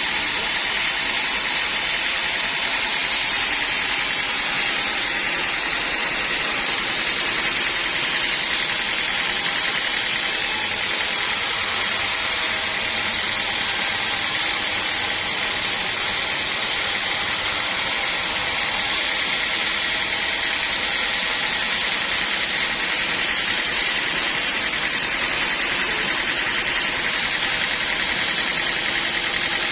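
Sawmill saw running steadily with no break or change, a constant high-pitched hiss.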